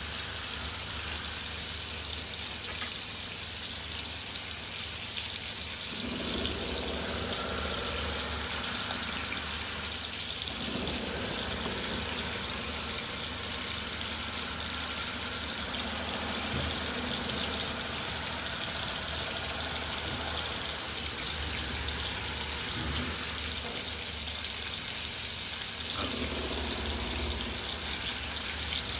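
Floured lemon sole frying in hot oil in pans on the hob, a steady sizzle, with a low steady hum underneath.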